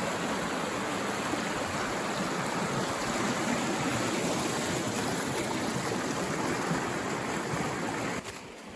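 A forest stream running, a steady rush of water that drops away suddenly about eight seconds in.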